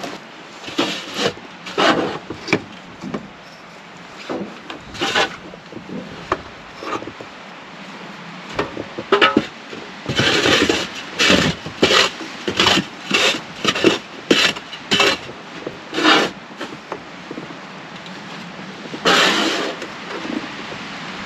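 Repeated rasping strokes on wood, a hand tool or object scraped or rubbed against wood, coming faster and louder through the middle, about one and a half strokes a second.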